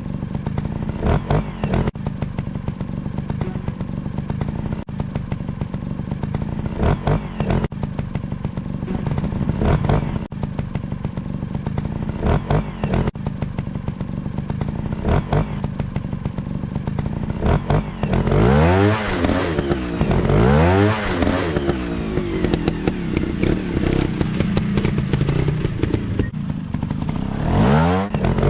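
Motocross bike engines running steadily, then from about two-thirds of the way in revving up and down again and again in quick rising and falling sweeps.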